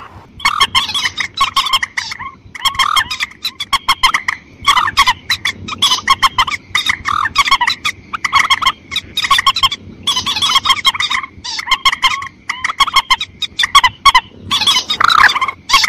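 Lure recording of mandar calls (a rail-family waterbird of the rice fields). Rapid harsh clucking notes come in bursts of about a second, repeating with short gaps.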